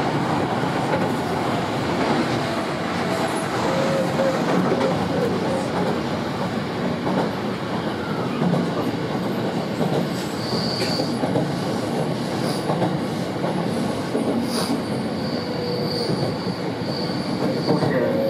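Running noise heard inside a Sanyo 5000 series electric train at speed: a steady rumble of wheels on rail, with occasional clacks. From about ten seconds in, a high, thin wheel squeal comes and goes.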